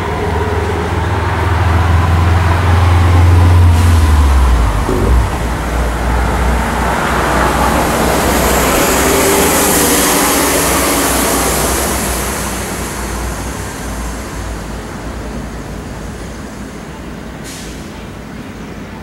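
A heavy road vehicle passing close by. Its deep engine rumble drops away about four seconds in, while a rush of road and air noise swells and then slowly fades.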